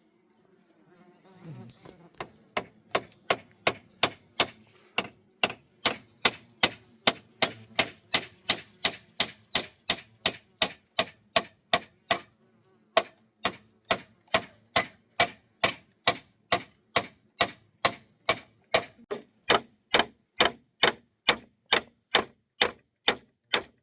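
A hand tool striking timber in a steady, rapid series of sharp blows, about two to three a second, with a short pause about halfway through.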